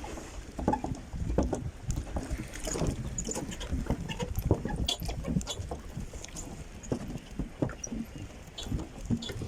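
Bicycle ride noise: irregular rattling and knocking from the bike over a rough road surface, over a steady low rumble.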